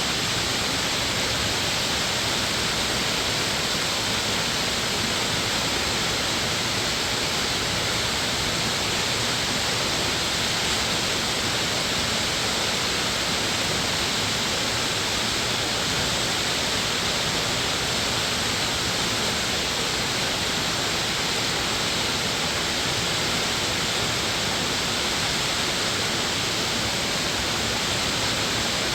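Mountain valley stream and waterfall, water rushing steadily without a break.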